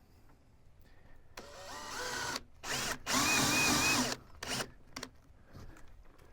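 Power drill run in several short bursts, its motor whine rising as it spins up each time. The longest and loudest burst comes about three seconds in and lasts about a second.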